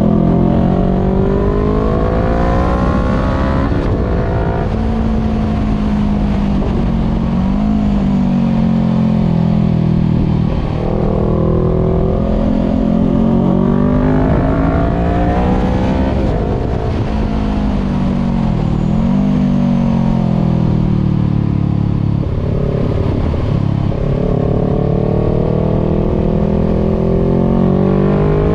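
Voge 500R's parallel-twin engine through a full exhaust with the dB killer removed, heard from on board while riding. The engine note climbs and drops again and again as the bike accelerates and eases off.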